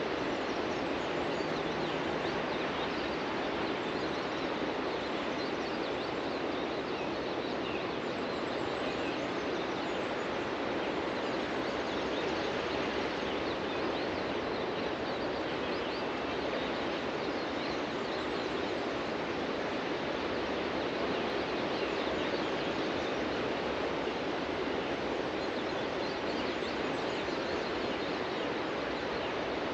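Steady wash of ocean surf breaking on a beach, with faint, scattered bird calls over it.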